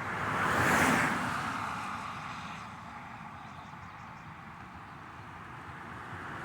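A road vehicle passing by: its noise swells to a peak about a second in and fades away over the next few seconds, over a steady low traffic rumble.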